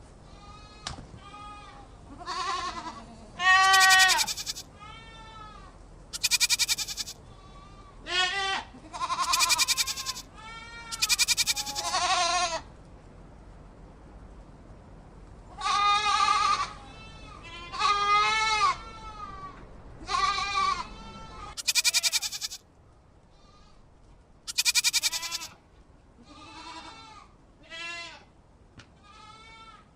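Goats bleating over and over: a dozen or more separate quavering calls, some higher and some lower, with short pauses between them.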